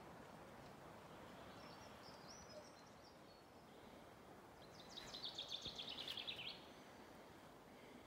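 A small songbird sings a quick trill of high repeated notes, about a second and a half long, dropping a little in pitch at the end, with a fainter high call a few seconds earlier. Under it runs a faint, steady background noise.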